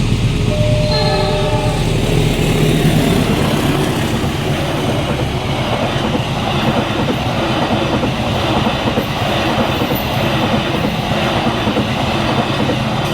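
A train passing over a level crossing: a short horn blast about a second in, then the steady clatter and rumble of the wheels over the rails to the end. Early on, the crossing's electronic warning alarm sounds a steady tone under it.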